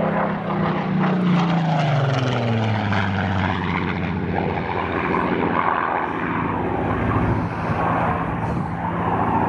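Supermarine Spitfire's V12 piston engine flying an aerobatic display pass. Its note falls in pitch over the first few seconds as the plane goes by, then drones on steadily.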